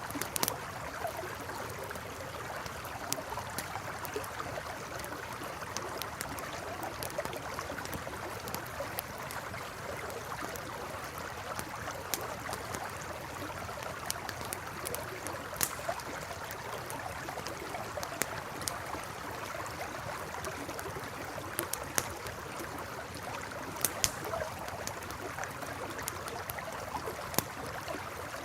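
Campfire crackling beside a flowing river: a steady rush of running water, with sharp crackles and pops from the burning wood scattered irregularly throughout.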